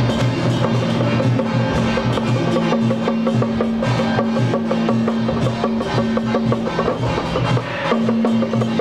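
Loud procession music: a rapid, even percussion beat over a held low drone.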